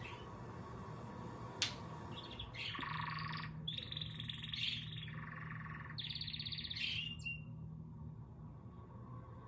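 A bird chirping in a run of buzzy, rapidly trilled phrases from about two and a half seconds in until about seven seconds in, after a single sharp click. A low steady hum runs underneath.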